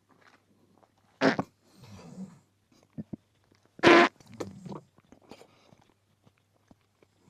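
Close-up mouth sounds of a person eating an olive: wet chewing and biting, with two loud sharp smacking bites, one about a second in and one about four seconds in.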